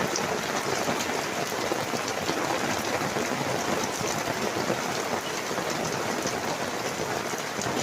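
Heavy rain falling steadily onto a garden gazebo canopy, heard from underneath it, with many fine drop ticks in a constant hiss.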